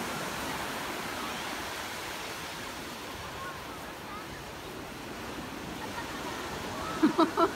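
Ocean surf washing steadily onto the beach. Near the end, a few short, loud voice sounds break in.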